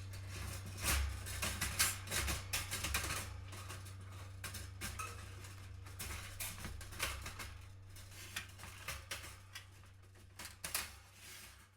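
Metal wire bird cage parts clicking and clattering against each other as the cage is fitted together, in irregular knocks and taps, over a steady low hum.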